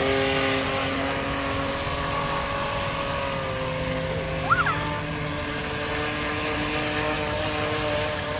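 Traxxas Blast RC boat's electric motor and propeller whining steadily as the boat runs on the pond, its pitch shifting slightly as the throttle changes. About halfway there is a brief high chirp.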